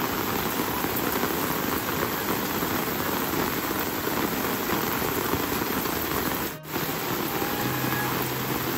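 Steady rain falling, a dense even hiss, with a momentary dip about six and a half seconds in.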